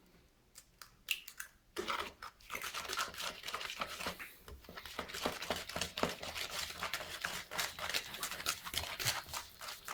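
Wire whisk beating cake batter in a bowl: rapid, irregular scraping clicks that start about two seconds in, after a couple of short knocks.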